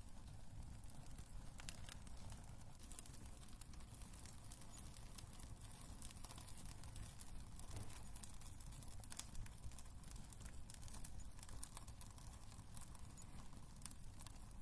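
Wood fire burning in a fireplace, crackling with frequent small irregular snaps and pops over a low steady rumble of the flames.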